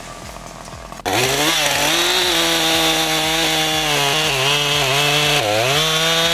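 Chainsaw engine cutting in about a second in and revving up to full speed, then running steadily with a brief dip in pitch about five seconds in.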